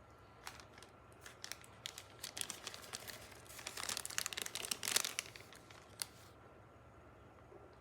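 Packaging crinkling and tearing as it is opened by hand: a run of quick crackles starting about half a second in, busiest around the middle, and stopping a little before the end.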